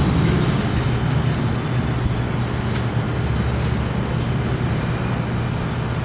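Strong storm wind blowing across the microphone, a steady low rumbling noise with no distinct events.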